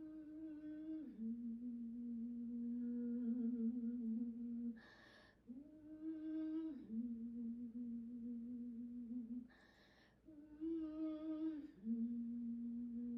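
A woman humming a slow, soothing two-note phrase three times, the kind of hum a mother makes to her baby: each phrase a short higher note that drops to a long held lower note. She takes an audible breath in between the phrases, about 5 and 10 seconds in.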